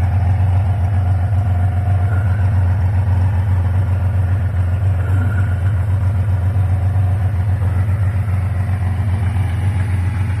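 1982 Kawasaki KZ1300's inline six-cylinder engine idling steadily through its original full exhaust, already warmed up.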